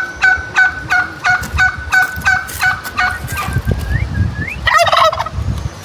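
A bird calling in a fast, regular series of short pitched notes, about three a second, then two rising calls and a harsher, louder call near the end.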